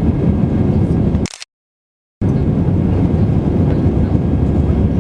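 Steady low drone of an Airbus A320-200's engines and airflow heard inside the passenger cabin in flight. A little over a second in it is broken by a brief hiss, then about a second of total silence, before the drone resumes unchanged.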